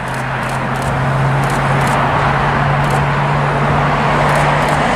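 Jet engines of a taxiing airliner: a steady rushing noise over a low hum, slowly growing louder.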